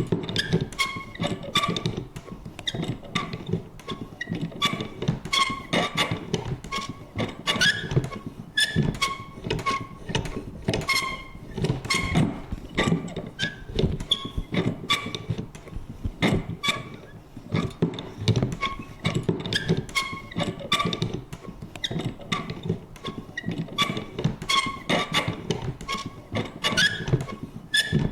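Vintage paper punch worked over and over: a quick, uneven run of clunks and clicks mixed with short creaks and squeaks.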